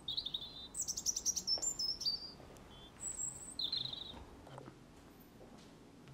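Small birds chirping: a handful of short, high chirps and one quick run of falling notes, spread over the first four seconds.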